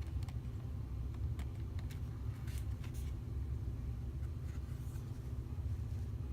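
Steady low background rumble, with a few faint short taps and rustles of oracle cards being handled.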